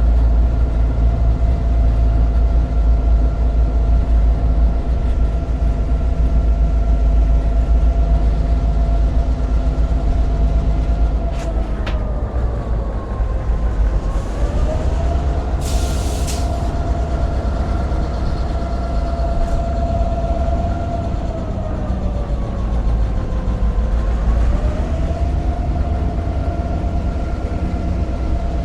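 Inside the cab of a GP38-2 diesel-electric locomotive under way: the EMD 16-cylinder 645 diesel rumbles steadily while a whine sinks in pitch and comes back up, twice. A sharp click comes at about the middle, followed shortly after by a brief hiss.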